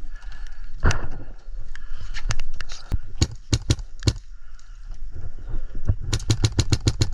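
Airsoft guns firing: a scatter of single sharp shots, then about six seconds in a rapid full-auto burst of roughly ten shots a second.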